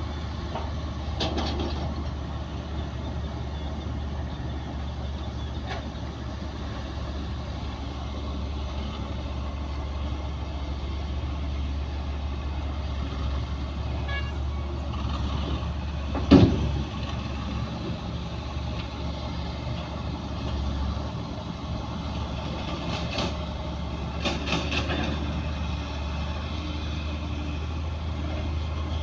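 Bulldozer's diesel engine running steadily under load, with a few short metallic clanks and one sharp loud bang about sixteen seconds in.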